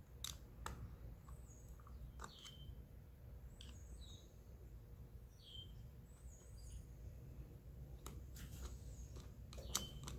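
Faint bird chirps, short calls that drop in pitch, repeating every second or so, over a low steady hum. A few small sharp clicks, about six, come in between, the sharpest near the end.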